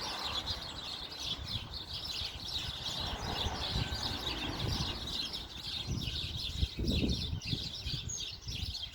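Many small birds chirping continuously in a tree, a dense run of quick high chirps, with a low uneven rumble underneath.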